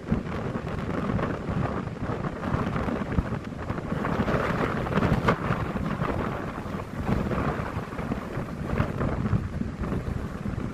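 Storm wind gusting hard across the microphone, buffeting and rushing. It swells to its strongest about halfway through.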